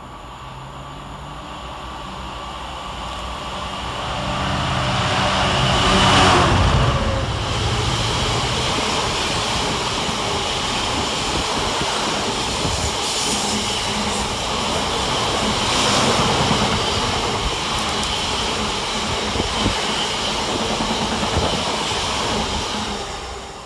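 Class 66 diesel locomotive with a two-stroke V12 engine approaching under power, its engine growing louder to a peak about six seconds in as it passes. It is followed by a long rake of aggregate hopper wagons rolling past with steady wheel-on-rail noise, which falls away near the end.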